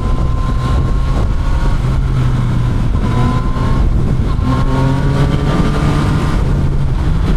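Motorcycle engine running steadily on the move, its note rising and easing a little a few times, over steady wind and road noise.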